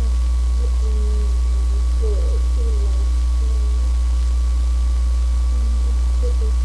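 Loud, steady low hum with a thin, steady whine above it. Faint wavering sounds come and go underneath.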